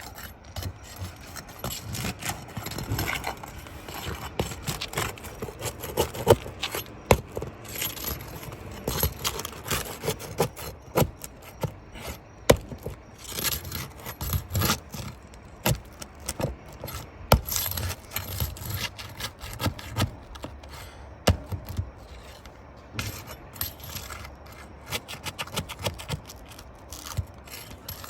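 Hand tools scraping and prying at roof shingles and their nails, with irregular sharp knocks and clicks and rubbing sounds throughout.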